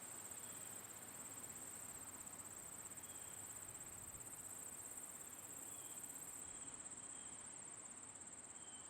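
Faint, steady insect chorus of summer crickets, a continuous high-pitched pulsing chirr. A second, even higher-pitched insect drops out about six and a half seconds in, and a few faint short chirps sound now and then.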